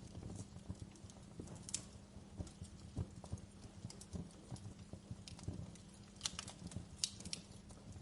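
Wood fire in a fireplace crackling: irregular small ticks and a few sharper snaps, over a low steady rumble of the flames.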